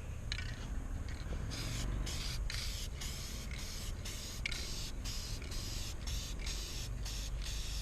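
Aerosol spray-paint can spraying in short, repeated bursts, about two a second, starting about a second and a half in.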